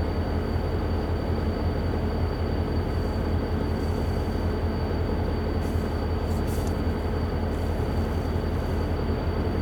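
Amtrak Coast Starlight passenger train passing at speed, a steady, unbroken rumble of its cars rolling over the rails.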